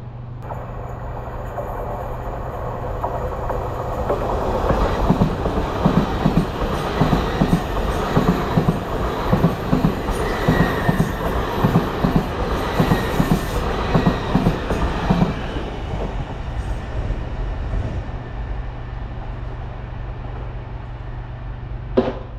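A train passing at speed, its wheels clacking in a regular rhythm over the rail joints; the sound builds over the first few seconds and fades away after about fifteen seconds. A single sharp click comes near the end.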